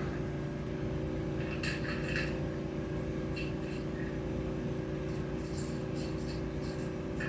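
A steady machine hum, with short bursts of hissing, splashy noise a few times.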